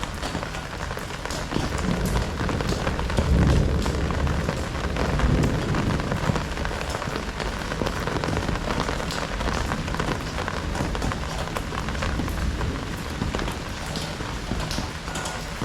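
Heavy rain falling steadily, a dense hiss dotted with individual drops striking surfaces. Low rumbling swells rise about three and five seconds in.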